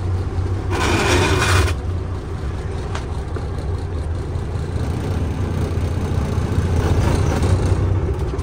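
Vehicle engine running with a steady low drone as it pulls forward. A short, loud burst of hissing, rattling noise comes about a second in.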